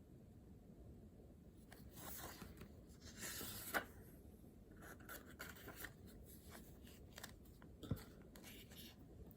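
Faint pen or pencil writing on paper: short scratching strokes in several spurts, with a couple of light taps of the pen.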